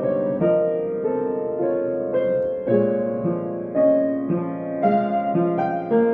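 Solo piano playing, single notes and chords struck about twice a second and left to ring into each other.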